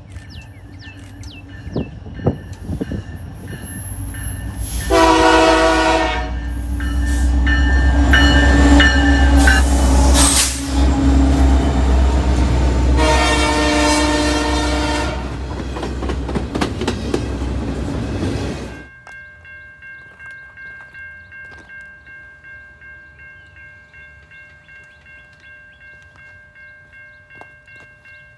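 Diesel-hauled double-stack container freight train passing close by. The locomotive sounds its horn in two blasts, about five seconds in and again around the middle, over a heavy rumble of engines and wheels that cuts off suddenly about two-thirds through. After that, a fainter ringing tone pulses about one and a half times a second.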